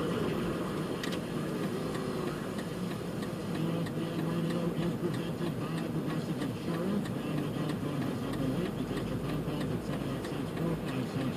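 Car engine and road noise heard from inside the cabin while driving slowly, a steady low rumble.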